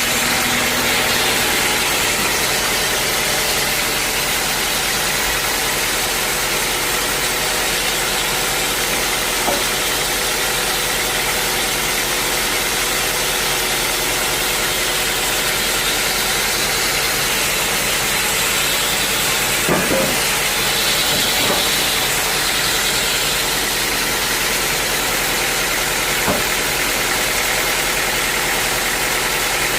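Sawmill machinery running steadily, a pitched engine-like hum under a wide hiss, with a few short knocks.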